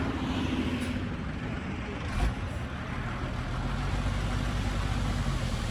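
Diesel engine of heavy earthmoving equipment running steadily, with one thump about two seconds in.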